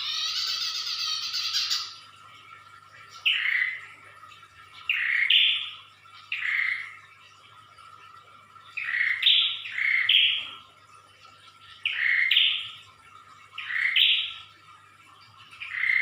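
A prenjak (prinia) calling: a fast loud trill for about the first two seconds, then short two-note calls, each a lower note followed by a higher one, repeated about every one and a half to two seconds. A faint steady tone and low hum run beneath.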